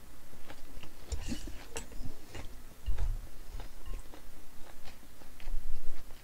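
A person chewing a full mouthful of food close to a microphone, with wet mouth clicks and crunches throughout. There are low thuds about a second in and again about three seconds in.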